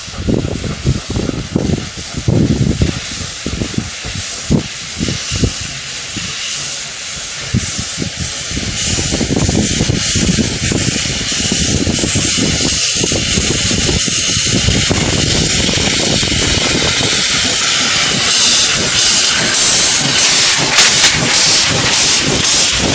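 Steam hissing loudly from a USATC S160 2-8-0 steam locomotive, growing stronger in the second half, with irregular low thumps through the first several seconds.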